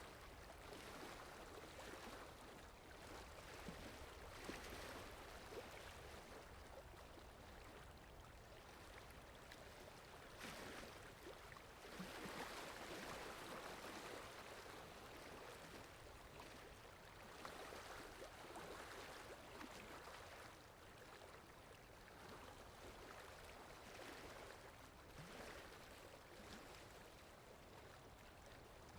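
Faint recorded flowing water, an even rushing that swells and eases every few seconds.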